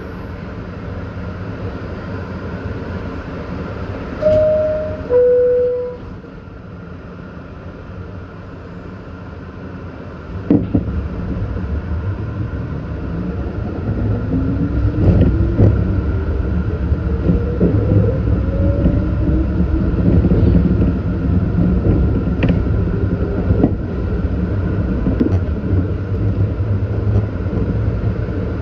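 New York City Subway train: a two-note descending chime sounds about four seconds in, and a thump follows several seconds later. The train then pulls away, its motors whining upward in pitch as it accelerates.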